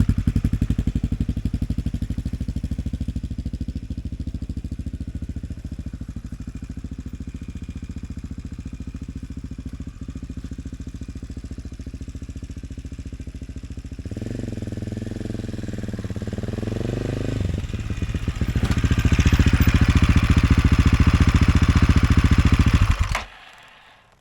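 AJP PR7's single-cylinder four-stroke engine running steadily at low revs, then revving up about fourteen seconds in and running louder and harder from about nineteen seconds. It cuts off abruptly shortly before the end.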